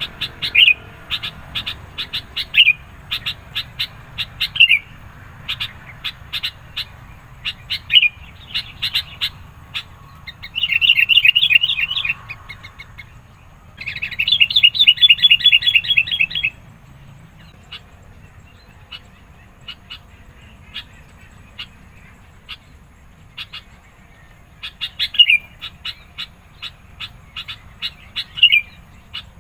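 Sooty-headed bulbul calling excitedly: a string of short sharp chirps, several ending in a quick downward slide, broken by two loud rapid chattering trills of about two seconds each near the middle.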